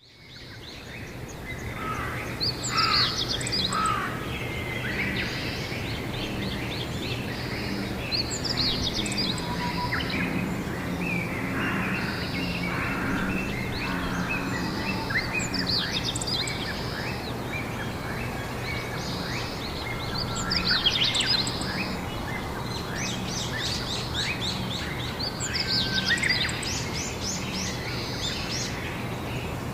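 Several songbirds singing, short fast chirping and trilling phrases every few seconds, over a steady low background hum. The sound fades in over the first couple of seconds.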